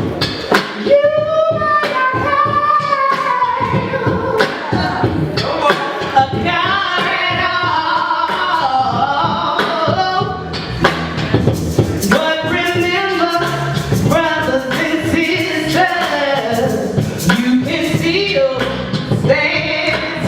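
Largely unaccompanied singing led by a woman's voice, with sharp percussive hits now and then.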